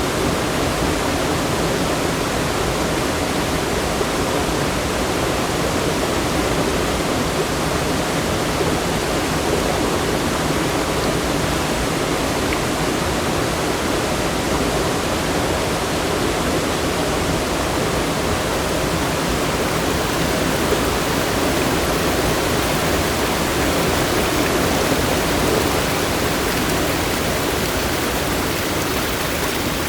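Steady rush of fast-flowing water, an even wash of sound that does not break or change.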